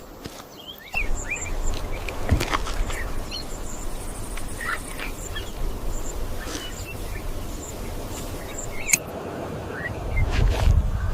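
Short bird-like chirping calls over a steady low rumble that comes in about a second in.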